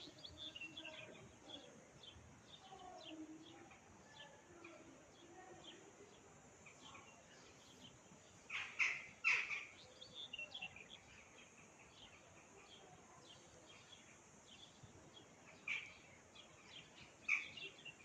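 Small birds chirping, many short high calls scattered throughout, with a few louder calls about halfway through and near the end, over faint outdoor background noise.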